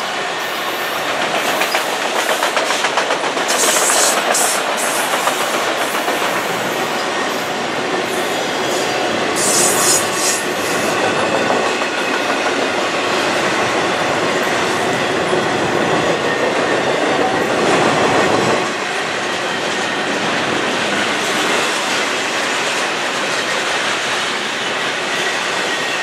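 Freight cars of a mixed freight train rolling past: autoracks, then intermodal well cars loaded with containers. Steel wheels run on the rails with a steady rumble and a rhythmic clickety-clack over the rail joints. Brief high squeals come from the wheels about four and ten seconds in.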